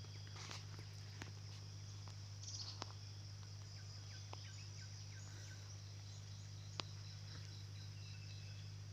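Faint insects trilling steadily, with a quick row of chirps in the middle and a few scattered clicks, over a steady low hum.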